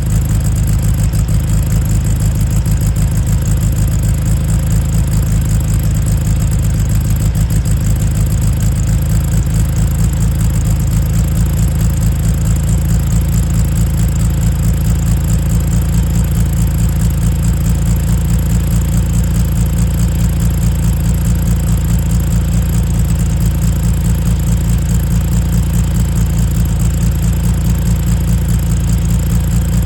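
Air-cooled flat-four engine of a 1963 Volkswagen Beetle running steadily with an even low beat, shortly after a cold start.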